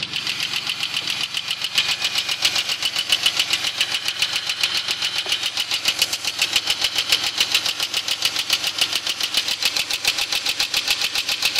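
2001 Pontiac Grand Prix GT's 3800 V6 engine idling with a fast, even, sharp ticking keeping time with the engine, which the owner takes for lifter tick but is not sure of the cause.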